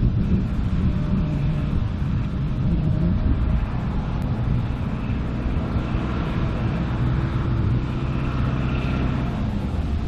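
Diesel-hydraulic sugar cane locomotive running with a steady low rumble and a faint whine above it that grows stronger in the second half.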